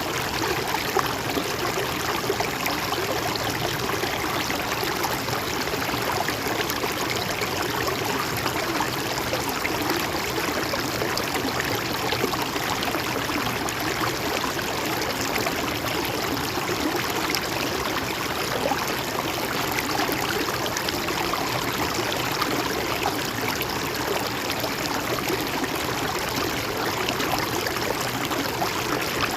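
A stream of water flowing and trickling steadily, an even rushing and babbling.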